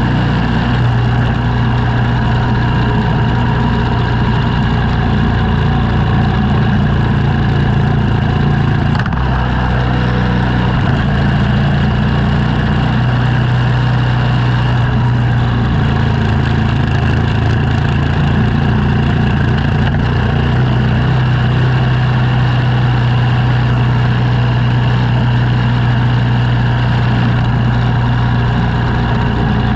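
Engine of a snow-clearing machine running steadily, its note shifting slightly about nine seconds in and again about sixteen seconds in.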